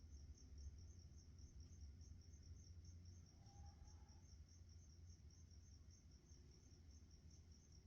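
A cricket chirping steadily and quietly in a fast, even rhythm of about four to five high chirps a second, over a steady low hum.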